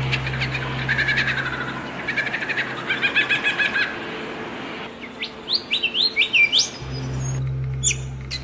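Songbirds chirping and calling: a fast run of repeated chirps about three seconds in, then a string of short rising whistled notes about five to six seconds in. A low steady hum runs underneath for much of it.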